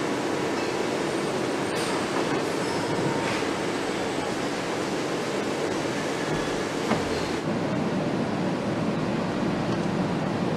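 Steady mechanical din of a motorcycle assembly hall, with a few faint clicks.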